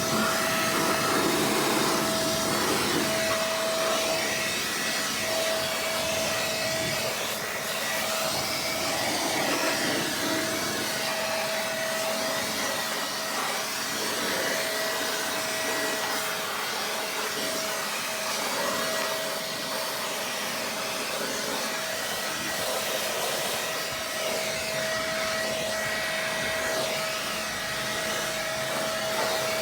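Electric air blower running steadily, with a rushing of air and a constant motor whine, as it blows water off a freshly washed engine bay to dry it.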